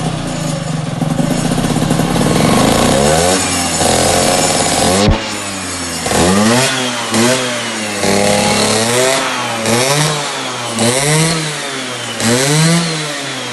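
Small petrol engine running after a tune-up, rising in pitch over the first few seconds. About five seconds in there is a sharp click, and after that the engine is blipped over and over, its pitch climbing and dropping back roughly once a second.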